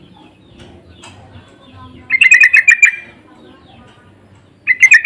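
Yellow-vented bulbuls (trucukan) singing: a loud, quick bubbling phrase of rapid notes about two seconds in, and another phrase starting near the end, the birds answering each other.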